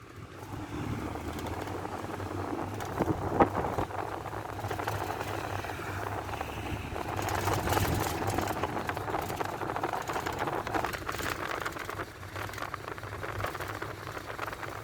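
Old Ford route minibus on the move, heard from inside the cabin: engine and road noise that builds up over the first second, with a sharp knock about three and a half seconds in.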